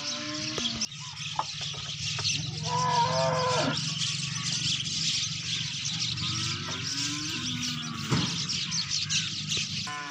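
Cattle mooing: a few calls, the loudest about three seconds in, over a steady low hum and a high hiss.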